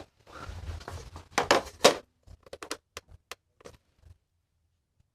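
Handling noise as a bicycle saddle is set on a scale: a rustling scrape with two sharp knocks, then a run of light clicks and taps that stop about four seconds in.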